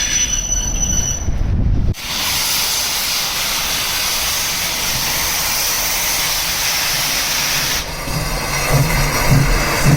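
Steam locomotive sounds: a low rumble, then from about two seconds in a steady loud hiss of escaping steam lasting about six seconds, then low rumble again with a few heavier pulses near the end.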